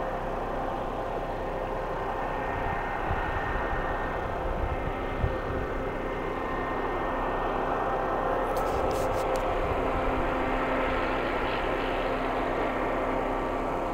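Steady engine drone with wind gusts buffeting the microphone, a low rumble strongest about three to five seconds in. A few faint clicks come just before halfway through.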